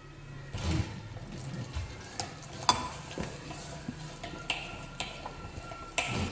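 Clicks and knocks of a manual meat grinder's parts being handled, with a heavier thud about a second in and again near the end, and a faint steady tone in the second half.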